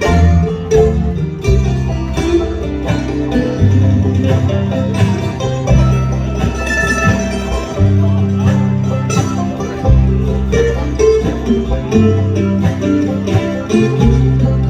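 Bluegrass band playing an instrumental break of a waltz, with banjo and guitar picking.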